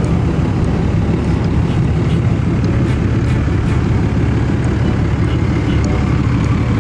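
Steady low rumble of a vehicle engine running, loud and even throughout.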